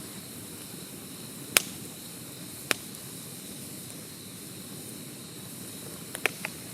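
Wood bonfire burning with a steady soft hiss and crackle, broken by sharp pops: a loud one about one and a half seconds in, another about a second later, and a quick cluster of smaller pops near the end.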